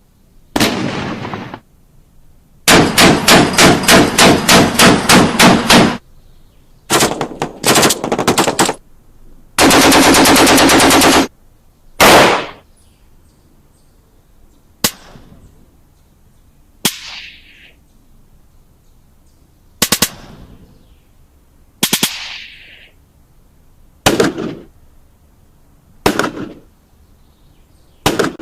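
Gunfire sound effects. First come several bursts of automatic fire: one of about a dozen shots at roughly three to four a second, and one very fast, unbroken stream of fire. Then single shots follow about every two seconds, each with a short echoing tail.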